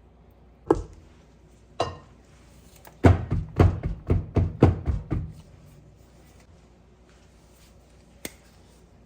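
Hard knocks: a single knock, then a second about a second later, then a quick run of about eight knocks at roughly four a second. A light click comes near the end.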